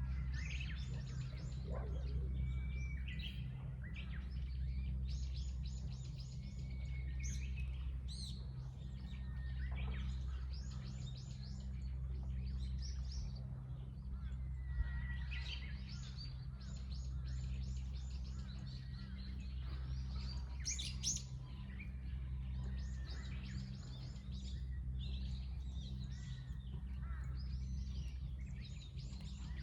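Small birds chirping and twittering in quick, repeated trills, one after another, over a steady low hum.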